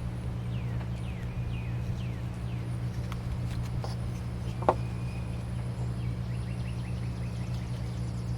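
Steady low hum with small birds chirping in the background: a run of quick falling chirps in the first couple of seconds and a few thin whistled notes later. A few faint clicks, with one sharp click about four and a half seconds in.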